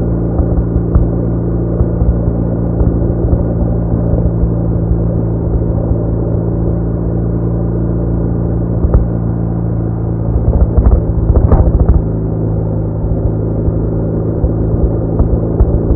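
BMW R1200R flat-twin boxer engine running at steady revs while cruising, a constant hum over road and wind rumble, with a few short louder knocks about two-thirds of the way through.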